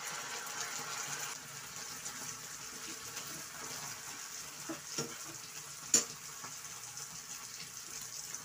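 Canned sardines in tomato sauce sizzling in a hot frying pan as they are poured in and stirred with a spatula. A couple of sharp clicks of the utensil on the pan, the loudest about six seconds in.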